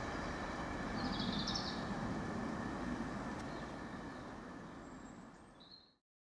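Freight train passing and moving away, its rumble and wheel noise fading over about five seconds until the sound cuts off. A brief high warbling chirp sounds about a second in.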